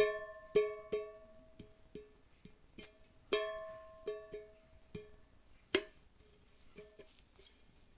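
Small metal saucepan struck by a child in an irregular rhythm of about a dozen hits, each ringing on with a few clear tones that die away; the loudest hits land at the start, just after half a second, at about three and a half seconds and near six seconds.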